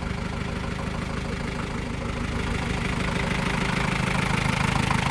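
1996 Hindustan Ambassador's diesel engine idling steadily just after a cold start, getting gradually louder from about halfway through.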